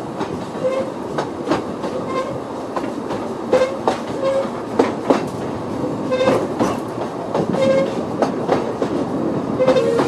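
A 2 ft gauge narrow-gauge train running along jointed track: a steady rumble with irregular sharp clicks of the wheels over the rails, and short, repeated squeals.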